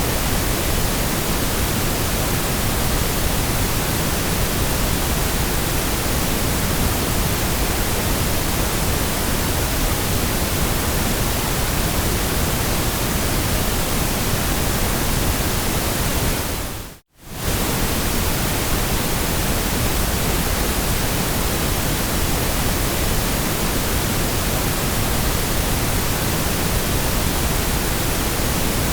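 Steady electronic white noise, an even, featureless hiss. About 17 seconds in it fades briefly to near silence and comes straight back.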